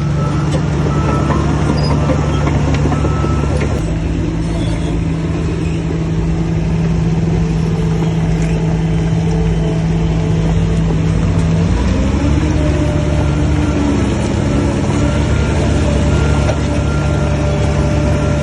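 Heavy diesel engine of earthmoving machinery running under load. Its low note shifts about four seconds in and again near twelve seconds as the engine speed changes.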